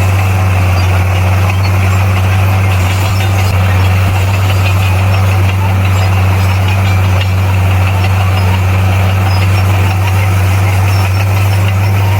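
Heavy diesel engine running steadily with a constant low hum and no change in speed.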